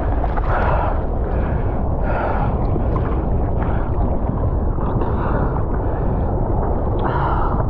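Seawater rushing and sloshing close to the microphone, with a steady deep rumble and several louder splashes.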